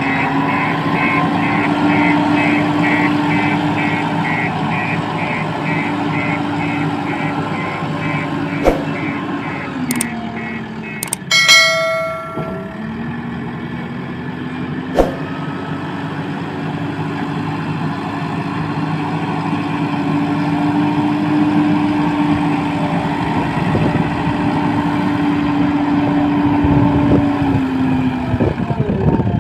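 Heavy diesel engine of earthmoving machinery running steadily, its note dipping and picking up again about a third of the way in as the load changes. For the first part a rapid repeating warning beep sounds over it, and near the middle there is a short horn-like tone and a few sharp knocks.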